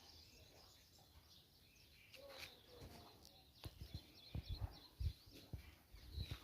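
Birds chirping faintly in short repeated calls, with a few low thumps mixed in.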